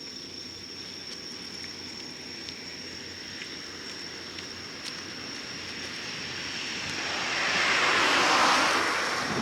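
A vehicle passes by, swelling to its loudest about eight seconds in and then fading, over a steady high trill of insects.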